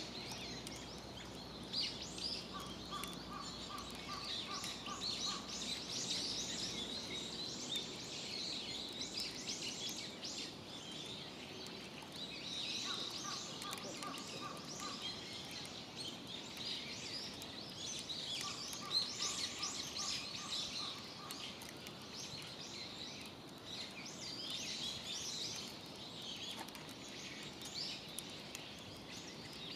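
Small birds chirping almost without pause. Three times, a run of about eight quick, even notes sounds through them.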